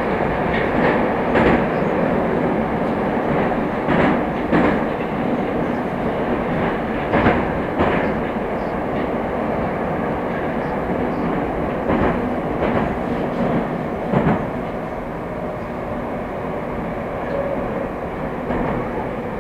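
Moscow Metro 'Moskva' train running between stations: a steady rumble of wheels and motors with clickety-clack from rail joints, the clacks often coming in pairs about half a second apart. The running noise eases a little in the last few seconds.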